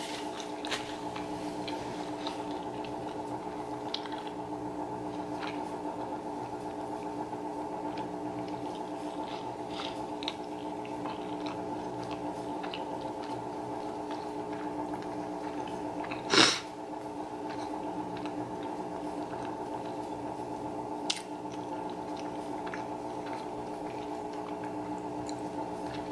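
Close-miked chewing of food with the mouth closed: soft wet squishing and small clicks, over a steady low hum. One short, much louder sharp sound comes about two-thirds of the way through.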